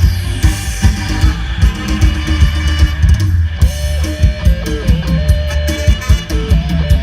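Instrumental music from an Isan band: a guitar melody over a drum kit playing a steady beat.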